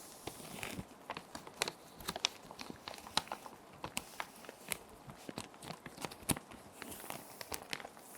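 Plastic sheet protectors crinkling and crackling in quick, uneven clicks as paper sheets are slid in and handled, over a steady hiss of rain.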